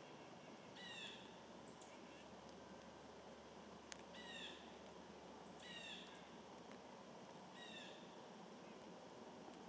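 A bird giving a short, downward-sliding call four times, a couple of seconds apart, over a faint steady hiss. A single sharp click comes about four seconds in.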